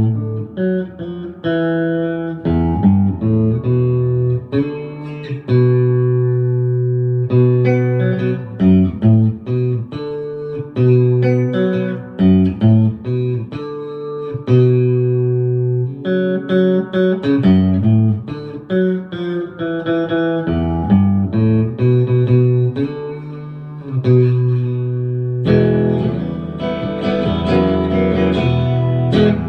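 Palo Escrito electric guitar played through its pickups: picked chords and single notes, some left to ring for a second or more. From about 25 seconds in it changes to steadier, fuller strumming. The notes sound clean with no fret buzz, as the player judges it.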